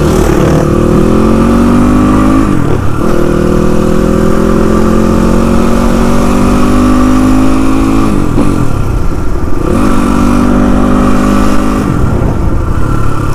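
Motorcycle engine pulling hard and climbing in pitch, dropping back sharply at gear changes about two and a half, eight and twelve seconds in.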